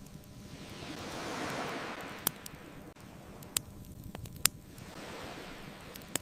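Ocean waves washing in, one swell rising and falling about a second and a half in and a smaller one near the end, over a crackling fire with a few sharp pops.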